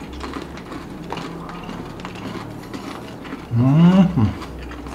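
A person chewing a mouthful of crunchy M&M's, the candy shells cracking faintly. About three and a half seconds in comes a loud closed-mouth 'mmm' that rises and then falls in pitch.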